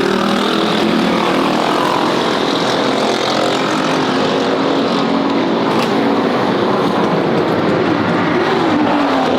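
Small mini bike engine running loud, its pitch rising and falling with the throttle.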